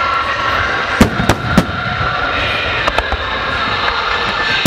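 Large fireworks display: aerial shells bursting over a continuous background of crackling and noise. Three sharp bangs come in quick succession about a second in, another near three seconds, and the loudest bang at the very end.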